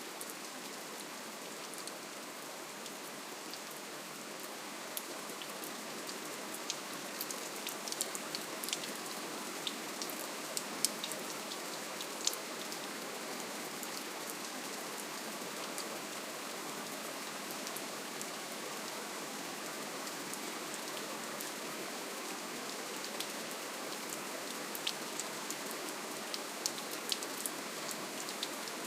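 Steady rainfall: an even hiss of rain with scattered individual drops ticking sharply on a surface, more of them a few seconds in and again near the end.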